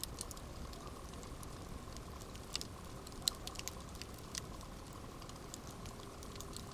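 Campfire burning with a steady low rumble and hiss, and scattered crackles and pops from the wood, a couple of sharper pops near the middle.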